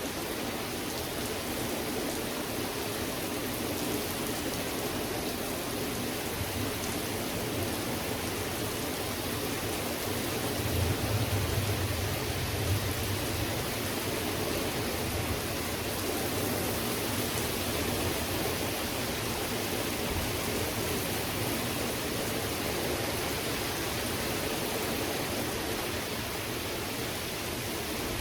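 Steady heavy rain falling, an even hiss, with a low rumble swelling briefly about eleven seconds in.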